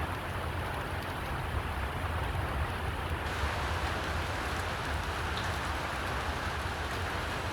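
Steady rain falling, a dense even hiss over a low steady rumble; the hiss grows brighter about three seconds in.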